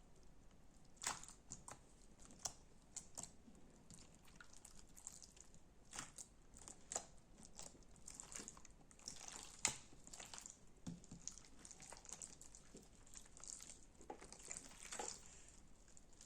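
Slime worked by hand close to the microphone: soft, irregular crackles, pops and wet squishes, with a sharper pop about ten seconds in.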